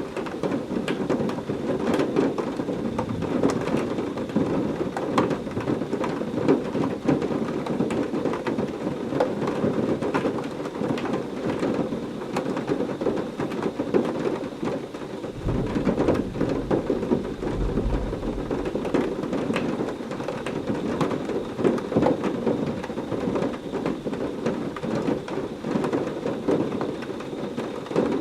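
Heavy rain falling steadily, with sharp individual drop hits through it. A low thunder rumble comes in about halfway through and dies away after three or four seconds.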